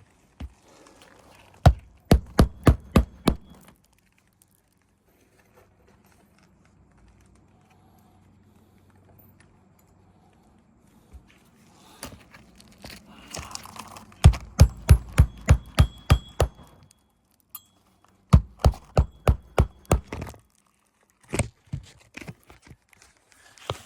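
Hammer driving roofing nails into asphalt shingles: three runs of quick, even blows, about three a second, the first about two seconds in and the others in the second half.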